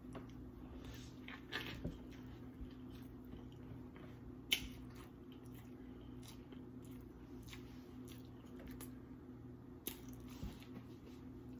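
A person biting into and chewing a big hamburger, faint, with scattered wet mouth smacks and a sharp click about four and a half seconds in, over a steady low hum.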